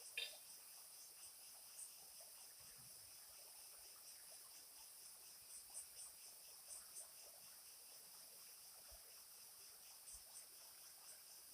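Faint, steady, high-pitched chorus of forest insects, with a sharp click about a quarter second in and a few soft ticks scattered through it.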